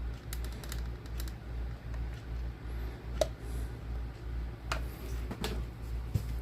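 Light clicks and taps of hands working a hot glue gun around a snow globe base, a few scattered through, the sharpest about three seconds in, over a low hum that pulses about twice a second.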